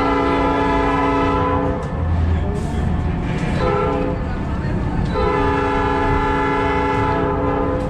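Locomotive horn sounding a long blast, a short blast, then another long blast as the train gets under way, over the steady rumble of the moving train.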